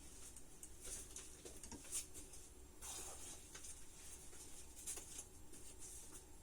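Water heater's abnormal noise: faint, irregular high-pitched ticking and pattering, a few clicks a second, thickening into a denser rustle about three seconds in.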